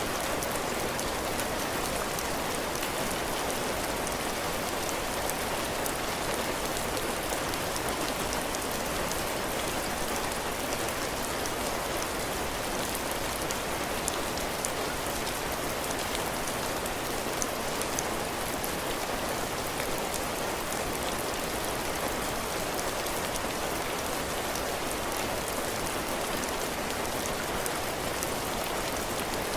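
Heavy rain falling steadily on a cabin porch, drops hitting the roof and the ground in a constant hiss with fine patter.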